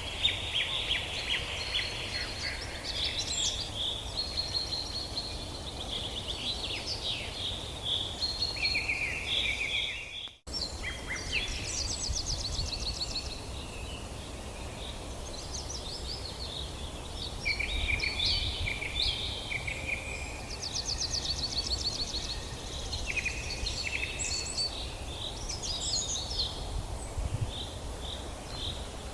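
Several songbirds singing at once in a forest chorus: overlapping high trills, fast chirp runs and short whistled phrases over a steady low background rumble. The sound cuts out for a split second about ten seconds in.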